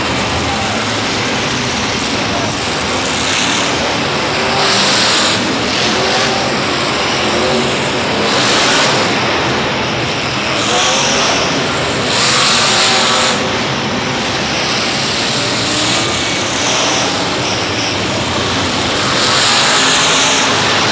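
Monster truck engines revving in an arena: a loud, unbroken din that swells again and again every couple of seconds.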